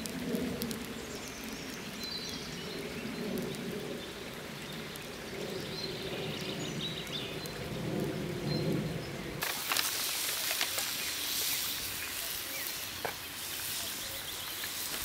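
Faint bird chirps over a low outdoor rumble, then about nine seconds in a steady sizzle starts abruptly: food frying in a pan.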